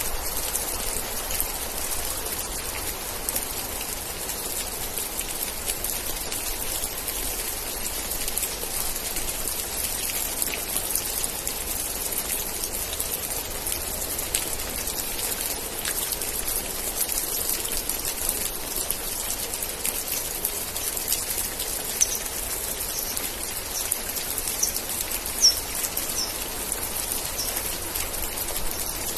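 Steady rain falling, with individual drops ticking on a surface. A quick run of about seven short, high chirps comes near the end.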